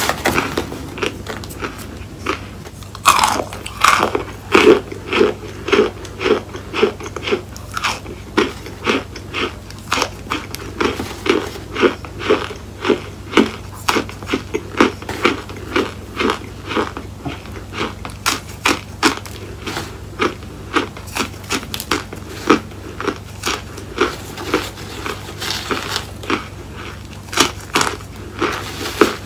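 Close-miked crunching of chunks of cornstarch being bitten and chewed, a sharp crunch repeating about once or twice a second.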